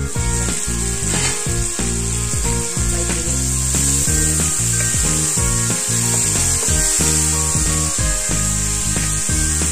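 Chicken pieces sizzling in a nonstick wok with a steady hiss, stirred and scraped with a wooden spatula, over background music with a melody of short notes.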